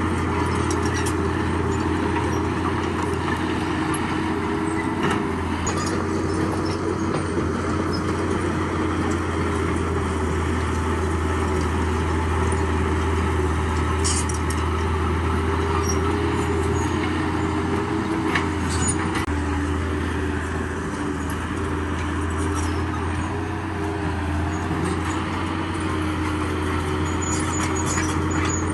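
Heavy diesel engine of a bulldozer running steadily under load, a constant low drone with a steady hum above it. A couple of sharp clicks stand out, about halfway through and again a few seconds later.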